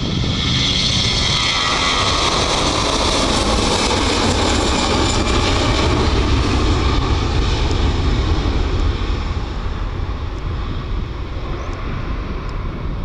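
Jet airliner engines passing close by: a high whine with its pitch falling in the first couple of seconds, giving way to a deep rumble that slowly fades.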